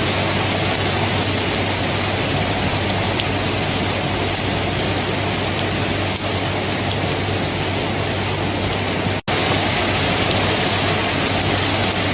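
Steady, even rain with a brief dropout about nine seconds in.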